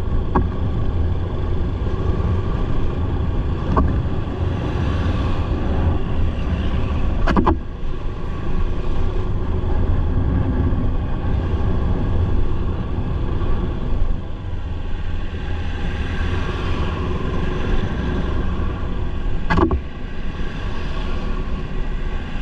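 Motorcycle engine running steadily while riding, under heavy low wind rumble on the microphone. There are four short sharp knocks, near the start, at about 4 and 7 seconds, and near the end.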